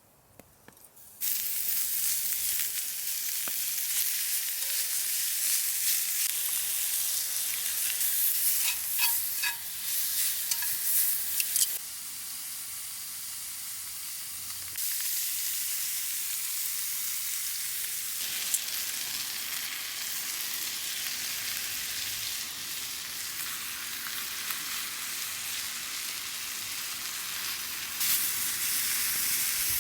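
Food frying in a hot pan, sizzling steadily after it starts suddenly about a second in, with a few small crackles along the way.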